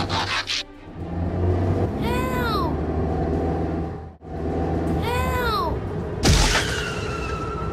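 Background music with cartoon sound effects: two arching rise-and-fall pitch sweeps a few seconds apart, then a sudden loud crash about six seconds in, followed by a ringing tone.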